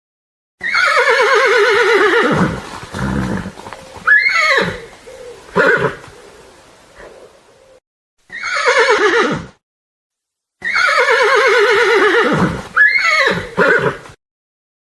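Horse whinnying: about five quavering neighs, each falling in pitch, the longest near the start and again about two-thirds of the way through. They are separated by abrupt gaps of dead silence.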